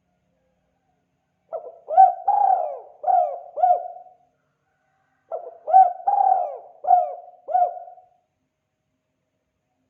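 Spotted dove (tekukur) cooing its 'kuk 2' song: two phrases of about five low cooing notes each, a second or so apart.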